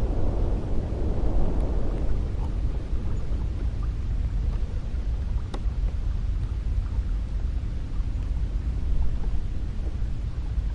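Cold wind blowing steadily with a deep low rumble; a higher rush of a gust dies away in the first couple of seconds.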